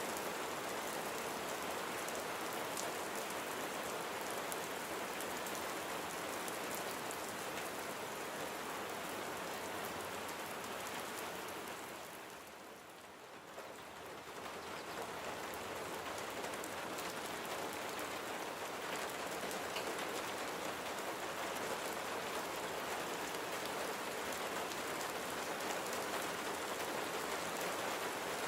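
Steady rain falling, a dense patter of drops. It dips briefly in level about halfway through, then comes back as before.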